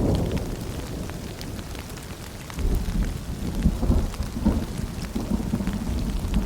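Rain falling with thin drip-like ticks over a low rolling rumble of thunder; the rumble eases, then swells again about two and a half seconds in.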